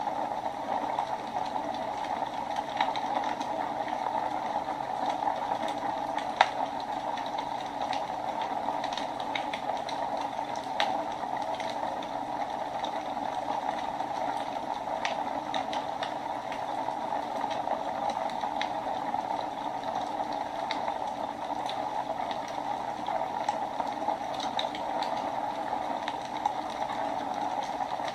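Wood fire burning in a fireplace: a steady rushing hiss with scattered sharp crackles and pops, the loudest pop about six seconds in.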